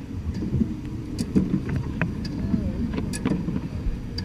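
1867 Hunneman hand-pumped fire engine (handtub) being worked by a crew on its pump brakes: a low steady rush with irregular clanks and knocks from the pumping mechanism.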